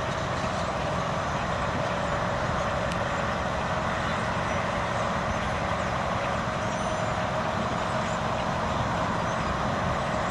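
Steady city-street background noise dominated by traffic, an even rumble and hiss with no sharp events.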